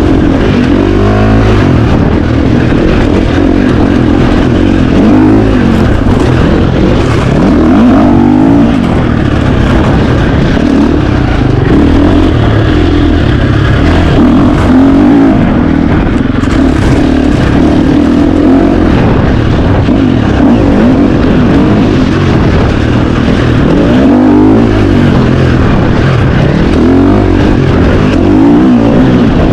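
KTM 350 XC-F dirt bike's 350 cc four-stroke single-cylinder engine being ridden hard, loud throughout, its pitch rising and falling over and over as the throttle is opened and closed.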